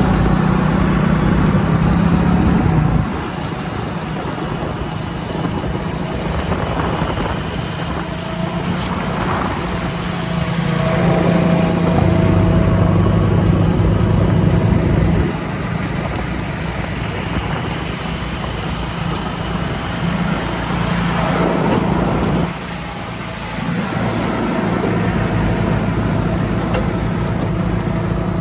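Heavy vehicle's diesel engine running steadily. Its level drops about three seconds in, picks up again for a few seconds around the middle, and dips briefly about three-quarters of the way through.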